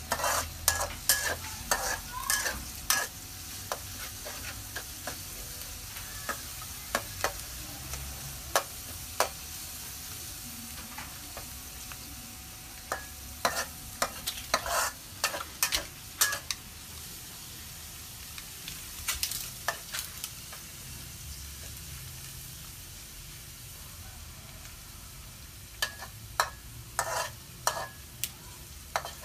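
Food sizzling and frying in a pan, with clusters of sharp clicks and scrapes from a utensil stirring it.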